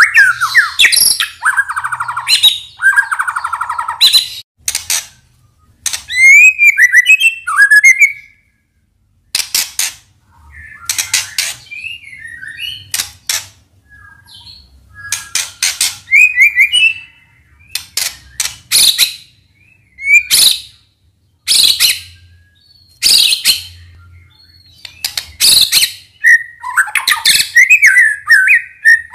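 White-rumped shama (murai batu) singing a loud, varied song: clear whistled phrases and quick trills mixed with sharp, clicking notes, broken by short pauses.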